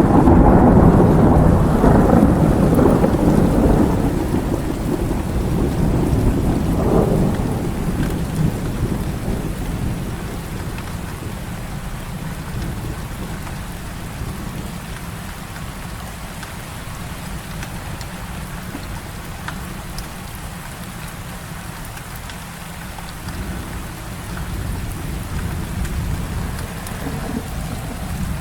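Heavy rain falling steadily, with a thunderclap that breaks right at the start. The thunder rolls for several seconds, swells again briefly, then fades into the rain. A softer rumble of thunder comes near the end.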